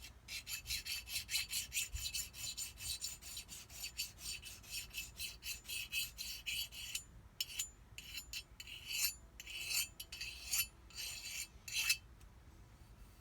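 Hand file scraping in quick, even strokes, about three a second, across the edge of a jet-ski pump impeller blade, deburring nicks left by debris. The strokes pause briefly about seven seconds in, resume, then stop near the end.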